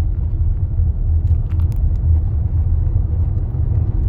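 Car driving on a thickly iced, snow-covered road: a steady low rumble of the engine and tyres.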